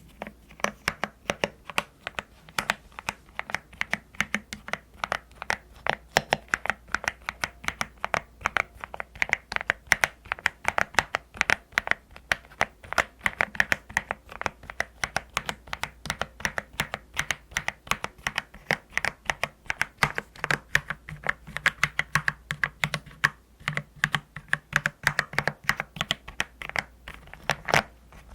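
Typing on a custom mechanical keyboard: a fast, unbroken run of keystrokes, several a second, with the rounded 'dogak-dogak' clack the keyboard was built for.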